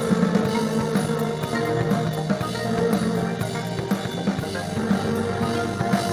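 Instrumental psychedelic rock played live: a rock drum kit keeps a steady beat under sustained guitar and bass.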